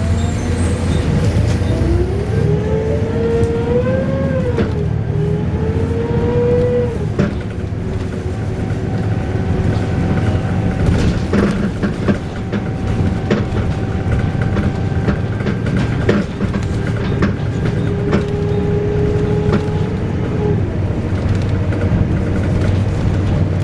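Volvo B7RLE bus running with a loud wailing whine over the diesel rumble. The wail glides up and down in pitch over the first several seconds, then settles into steadier held tones, with knocks and rattles throughout.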